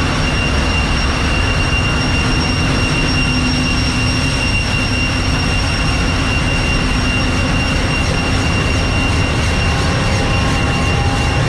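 Ship's engine-room machinery running: a loud, steady deep rumble with a constant high-pitched whine over it.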